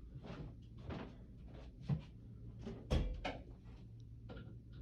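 Scattered knocks and clatters of things being handled and set down, about six in all, the loudest a thump about three seconds in.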